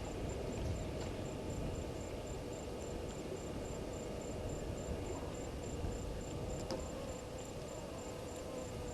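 A cricket chirping: a high, evenly repeated pulse, several times a second, over a low outdoor rumble.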